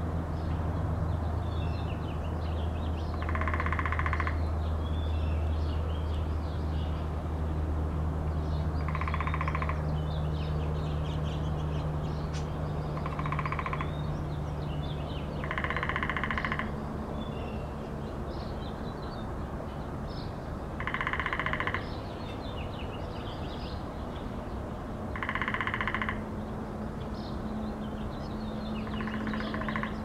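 Small birds chirping in short, scattered notes over a steady low hum. Seven times, roughly every four seconds, a burst of buzzing noise lasts about a second and stands out above the birdsong.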